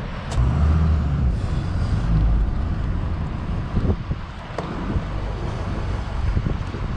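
Street-legal monster truck's engine rumbling as it drives off, loudest for the first two seconds, then running on a little lower.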